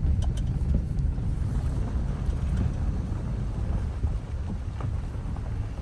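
John Deere 8335R tractor's diesel engine running as the tractor drives past, a low rumble that slowly fades toward the end, with wind buffeting the microphone.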